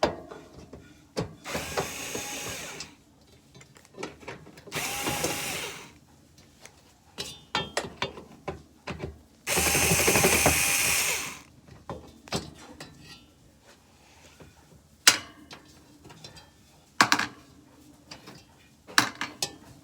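A power drill or driver runs in three short bursts, backing out screws to remove the air conditioner's bracket. In the second half come three sharp knocks of hard parts being handled.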